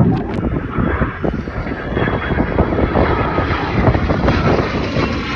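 Fixed-wing aircraft engine running loud in flight, a dense, rough, steady noise.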